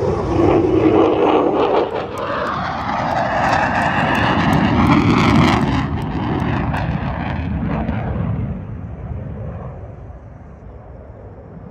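Low-flying airplane making a fast pass: loud engine noise that shifts in pitch as it goes by, then fades away after about eight seconds.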